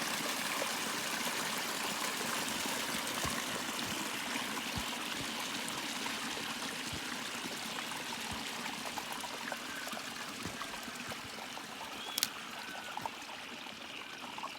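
Overflow water from a farm dam running down its spillway channel after heavy rain: a steady rush of water that grows a little quieter toward the end, with one short sharp knock about twelve seconds in.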